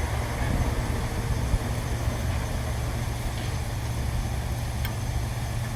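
Steady low mechanical hum of running machinery.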